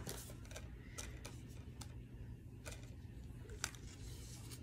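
A few light, sharp clicks and taps over a low steady hum, from movie cases being handled.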